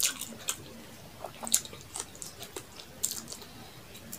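Close-miked eating: chewing with wet mouth clicks and smacks at irregular moments, the loudest about a second and a half in, along with fingers squishing rice and bottle gourd curry on a steel plate.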